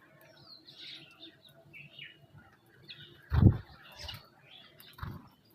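Small birds chirping in short scattered calls and quick falling notes. A loud dull thump about three and a half seconds in, and a softer one near the end.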